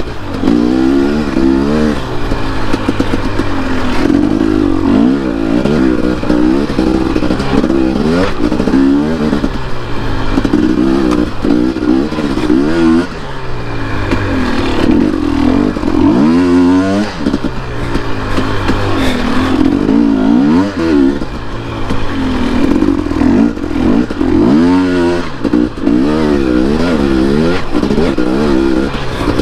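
Dirt bike engine ridden along a trail, revving up and falling back again and again as the throttle is opened and closed, with short drops in pitch and level a few times.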